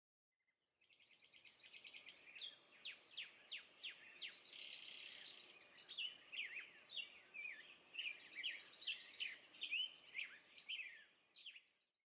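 Faint birdsong: a songbird's rapid chirps, short whistles and trills, starting about a second and a half in and stopping just before the end.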